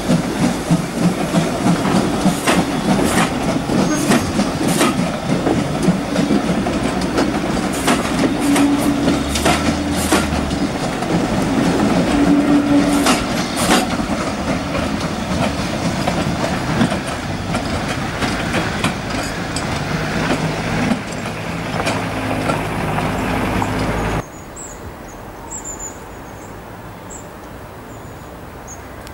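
Steam-hauled train of coaches rolling past, its wheels clicking over the rail joints in a steady clickety-clack over a rumble. About 24 s in it cuts off abruptly to a much quieter outdoor background with faint high chirping.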